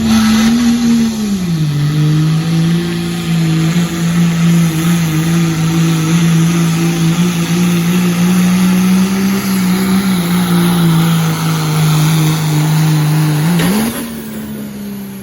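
Turbo-diesel pickup truck with a 2.6-inch smoothbore turbo running flat out while pulling a sled. Its engine note drops about a second and a half in as the load pulls the revs down, holds steady with small wobbles, then rises sharply near the end before the sound eases off.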